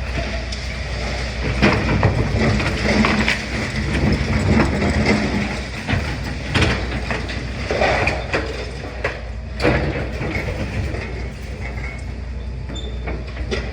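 Demolition excavator working: a steady low engine drone with frequent clanks, knocks and crunches of breaking masonry and metal.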